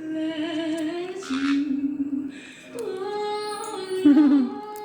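Female singing voice holding long, slowly shifting notes, with a short hissy noise about a second in and a louder wavering note near the end.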